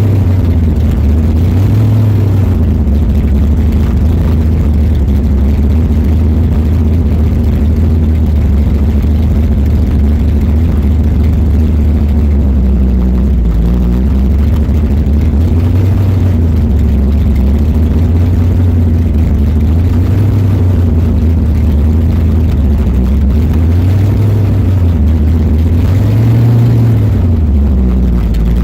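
Supercharged 540 cubic inch big-block Chevy V8 with an 8-71 blower and dual four-barrel carburettors idling, heard from inside the car. Its pitch rises briefly about five times with light throttle blips, the highest near the end.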